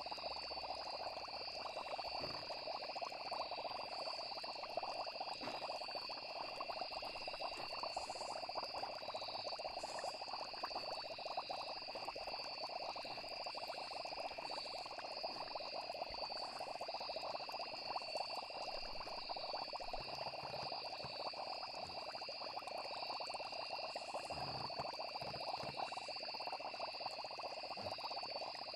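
A night chorus of frogs calling densely and without pause, with crickets trilling steadily at a high pitch over it.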